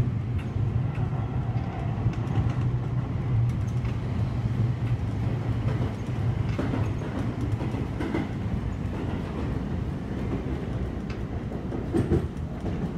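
Seibu Railway commuter train running on the rails, heard from inside the front car: a steady low hum that fades about halfway through, with scattered wheel clicks over rail joints and a louder knock near the end.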